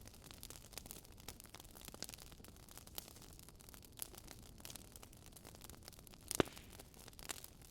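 Wood fire crackling in a fireplace: faint, irregular snaps and ticks, with one louder pop about six seconds in.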